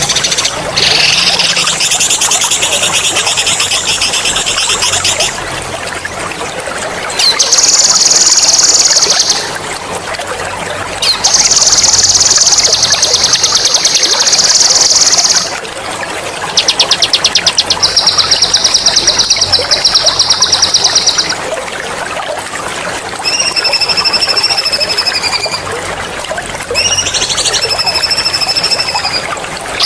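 Songbird song with long, rapid, high rolling trills ('ngerol'), four bursts of several seconds each, followed near the end by two shorter whistled phrases. It plays over a steady trickle of running water.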